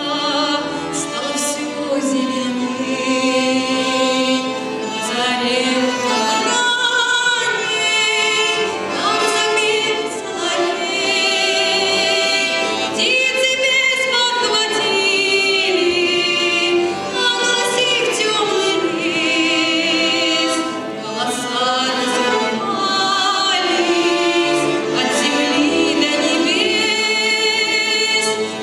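A girl's solo voice singing a song with vibrato, over instrumental accompaniment.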